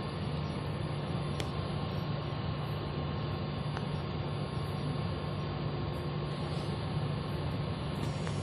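Steady low hum over an even rushing noise on a railway station platform, typical of a train's electrical and ventilation equipment running at the station.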